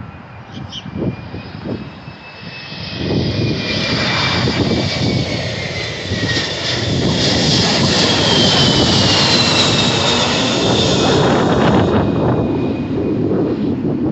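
Jet airliner passing low overhead on its landing approach: the engine noise swells over a few seconds and holds loud, with a high whine that falls in pitch as it goes by, then eases off near the end.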